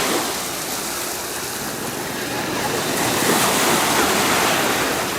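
Sea waves washing onto a sandy beach: a steady rush of surf that swells and eases.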